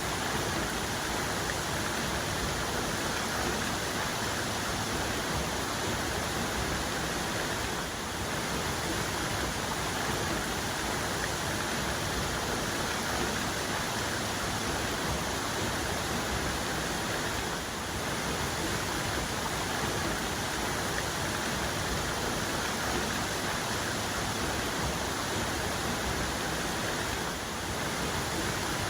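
Waterfall cascade, a steady rushing of falling water that stays even throughout.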